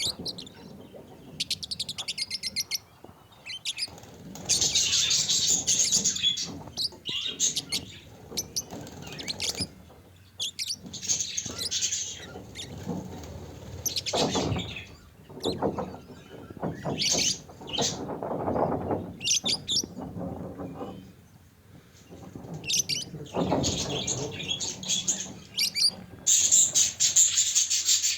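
Budgerigars chirping and chattering, many calls overlapping, with bursts of rapid warbling.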